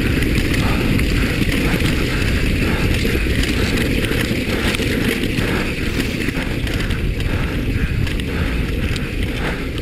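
Steady rush of wind over the microphone mixed with the rattle and tyre noise of a downhill mountain bike descending at speed.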